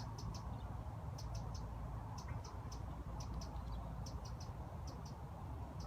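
Short high-pitched chirps repeating in twos and threes, roughly every half second, over a steady low rumble.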